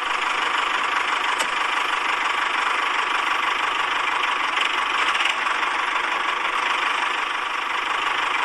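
A small motor running steadily, a dense buzzing hum with a thin constant whine, starting abruptly.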